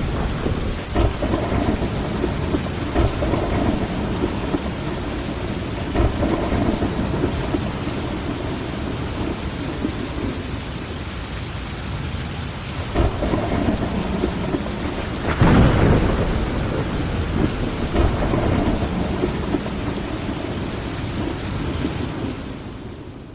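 Steady rain with repeated rumbles of thunder, the loudest about two-thirds of the way through. The sound fades out near the end.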